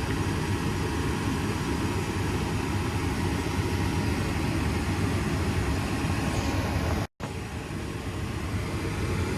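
Goodman gas furnace running with a steady low mechanical rumble between ignition attempts, cutting out completely for a split second about seven seconds in. The furnace keeps lighting and losing its flame, which the technician suspects is a dirty flame sensor.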